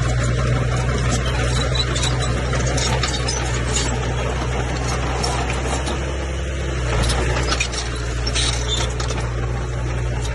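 Bulldozer diesel engine running steadily under load, with scattered metallic clanks from the machine as it works.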